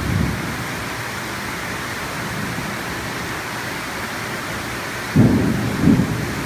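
Heavy storm rain falling steadily. About five seconds in comes a sudden, louder low rumble, the loudest moment.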